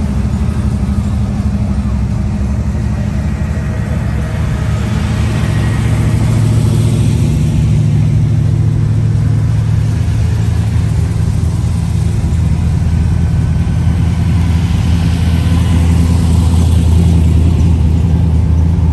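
Car engines running with a steady, low rumble; a hiss swells twice, about six and sixteen seconds in.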